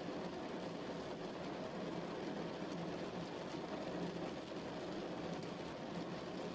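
Steady rain, an even, unbroken wash of noise heavy in the low and middle range.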